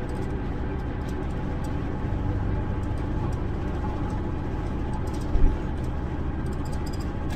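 A car on the move: steady road and engine noise, with a brief louder knock about five seconds in.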